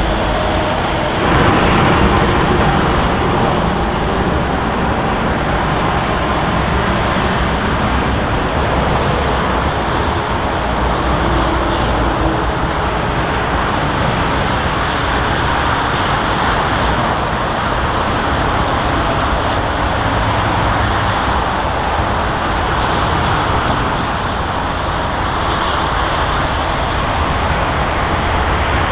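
Jet engine noise from an Airbus A350-900's Rolls-Royce Trent XWB engines: a loud, steady roar that swells a little about a second and a half in.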